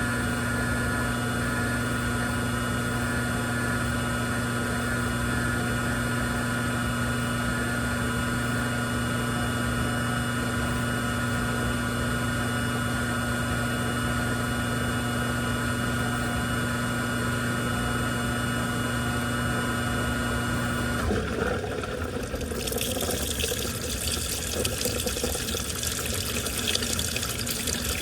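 Washing machine running with a steady mechanical hum that cuts off about three-quarters of the way in, then water rushing into the machine as it fills.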